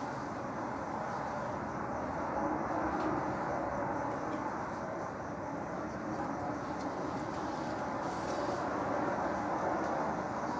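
Steady rumbling drone with no clear pitch, swelling slightly a couple of seconds in and again near the end.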